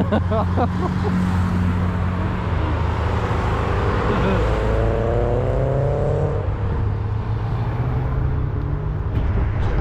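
Classic car engines running as cars drive past, with one car accelerating by around the middle, its engine note rising in pitch for a couple of seconds.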